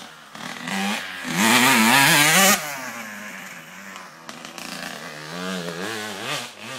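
Honda CRF250 four-stroke motocross bike ridden past close by, its engine revving up and down as the rider works the throttle. It is loudest about one and a half to two and a half seconds in, drops off sharply, then runs on quieter with the pitch still rising and falling.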